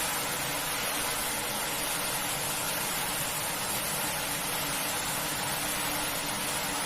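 Carpet-washing equipment running steadily: a constant motor hum under an even hiss, with no change or break.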